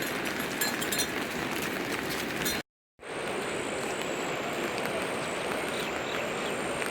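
Steady rain falling, with small sharp drips and taps in the first part. The sound cuts out completely for a fraction of a second a little before the middle, then the rain resumes with a faint, thin, high steady whine over it.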